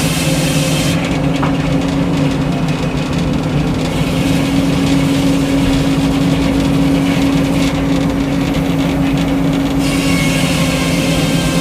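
Frick circular sawmill and its engine running steadily, with a constant hum.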